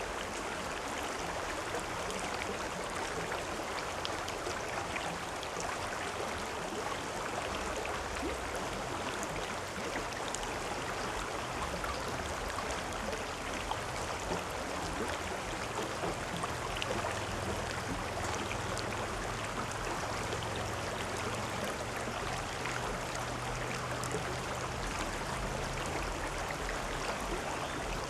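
River or stream water flowing and babbling steadily, an even rushing with fine splashes.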